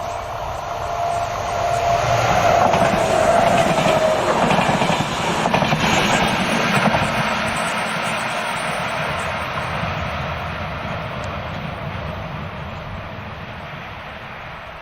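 S-Bahn train passing by: the rumble and clatter of its wheels swell to a peak a few seconds in, then fade away. A single high tone drops in pitch as it goes by.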